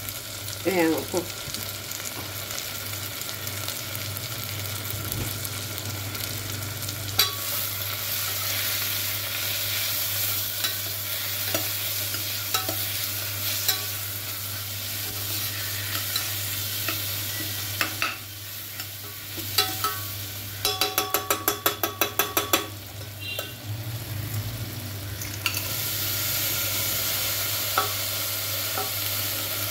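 Tomatoes, onions and green peas sizzling as they fry in oil in a steel pressure cooker, stirred with a spatula that scrapes and taps against the pot. About two-thirds of the way in there is a quick run of about a dozen even clicks.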